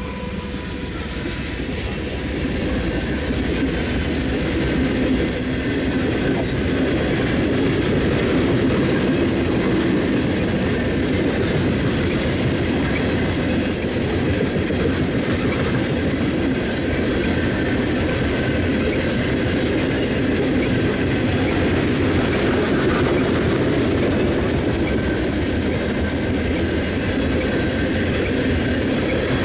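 Freight train rolling past close by: a steady rumble of wheels on rail with clickety-clack over the rail joints and brief high-pitched wheel squeals. It grows a little louder over the first few seconds.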